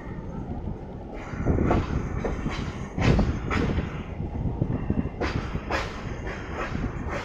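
MEMU electric commuter train running along the track, its wheels rumbling and clattering over the rails with irregular knocks.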